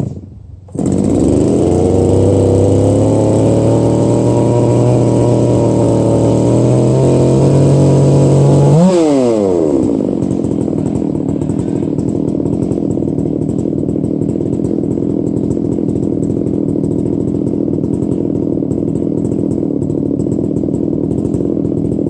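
Big-bore two-stroke chainsaw catching about a second in and revving up, held at high revs for about eight seconds, then the throttle released and the pitch falling away to a steady idle.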